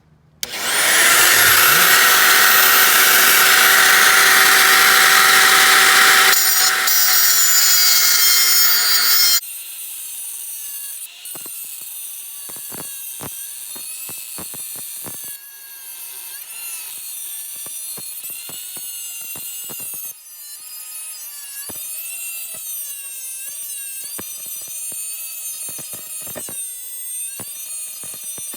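Power grinder spinning up and grinding a rusted steel stud flush, loud for about nine seconds before cutting off. After it stops, a quieter motor whine with wavering pitch and scattered clicks runs on.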